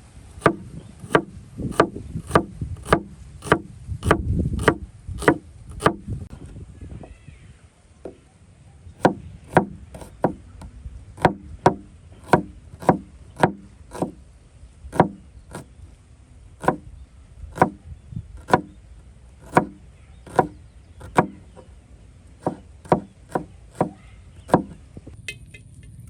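A knife blade chopping on a wooden cutting board in steady strokes, about two a second. The strokes stop for a few seconds and then run on at the same pace until near the end.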